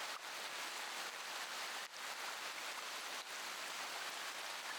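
Steady rain falling, an even patter without thunder or other events.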